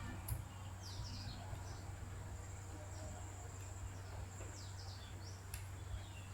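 Short falling bird chirps, in small groups about a second and a half apart, over a steady high-pitched whine and a low hum.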